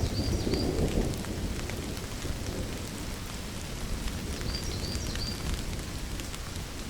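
Steady rainfall with the tail of a low thunder rumble in the first second or so, fading into the rain. A few short high chirps come right at the start and again about five seconds in.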